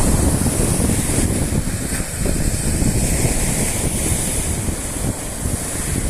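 Strong wind buffeting the microphone: a loud, uneven low rumble over a steady hiss.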